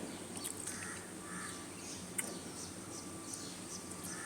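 Faint bird calls, a few short calls and chirps, over a steady low hum.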